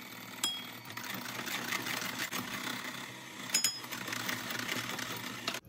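KitchenAid electric hand mixer running steadily, its beaters whipping egg whites in a glass bowl into a meringue, with a couple of light clicks.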